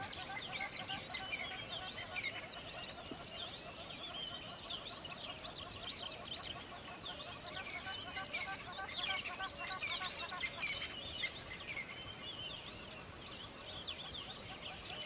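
Many birds chirping at once, a dense chorus of short, overlapping high calls, over lower, quickly repeated chattering notes.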